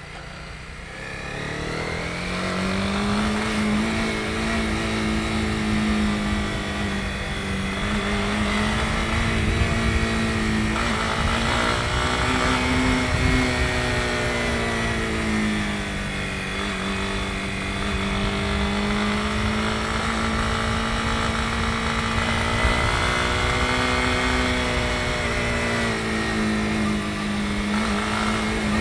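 Honda CB250R's single-cylinder engine picks up speed over the first couple of seconds, then runs at a steady cruise with small rises and dips in pitch as the throttle is worked, and eases off at the very end.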